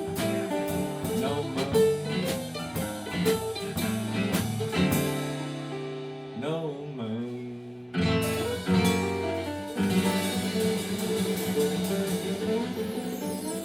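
Live band playing an instrumental break: guitar over a drum kit. The drums let up about six seconds in and the full band comes back in about eight seconds in.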